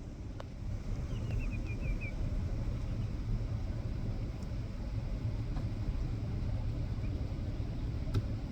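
Steady low rumble inside a minivan's cabin, with a faint haze above it. About a second in comes a brief run of about seven short, falling chirps.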